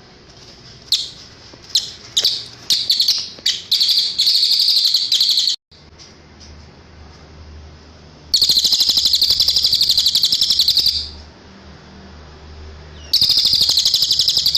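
Cililin bird singing: a run of sharp high chirps that speed up into a rapid trill, breaking off abruptly about halfway. Then come two long, fast, high trills, the second starting near the end, over a faint low hum.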